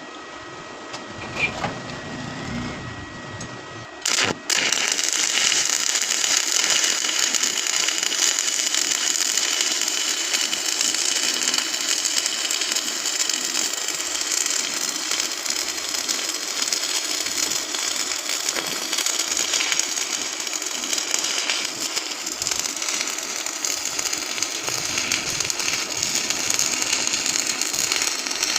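Stick (arc) welding: the arc strikes about four seconds in, then crackles and sizzles steadily as the electrode burns.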